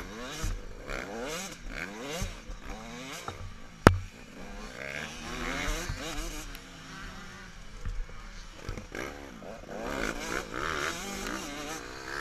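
Several motocross bikes racing, their engines revving up and down and overlapping as they change gear. A single sharp knock about four seconds in stands out above the engines.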